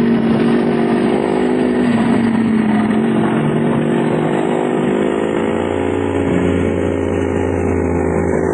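Dirt bike engine running at a steady speed, with a deeper note joining in during the second half.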